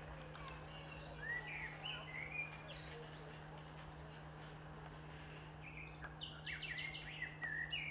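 Small birds chirping in short, gliding calls: a few about a second in, and a quick run of repeated chirps near the end, over a steady low hum.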